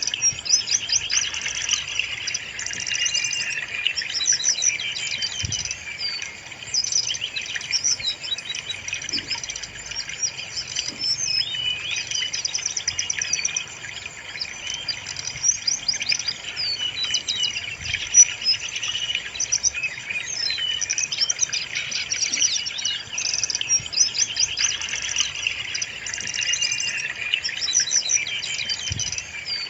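Brown-chested jungle flycatcher singing continuously: a dense run of quick chirps, trills and short whistled phrases, played as a lure song to get kept birds singing.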